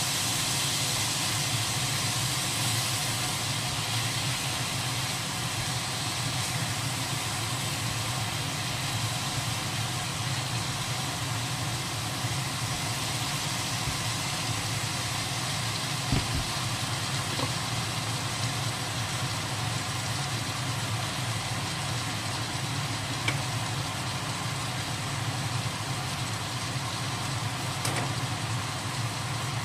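Squid frying in a hot wok: a steady sizzling hiss over a constant low hum, with an odd knock of the spatula against the pan a few times.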